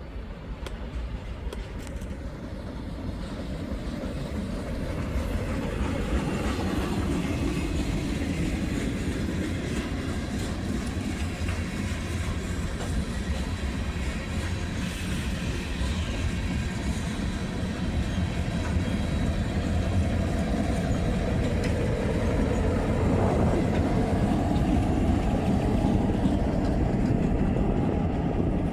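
A train rolling past on the tracks, a continuous rumble and clatter of wheels on rail that builds over the first several seconds and then holds loud.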